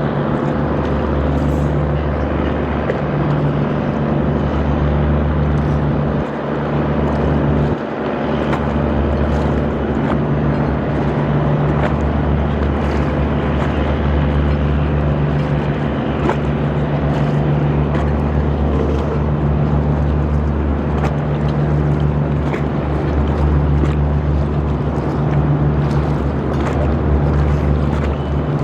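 A river boat's engine running steadily with a low drone, over the rush of water and wind. The drone dips briefly twice, about six and eight seconds in.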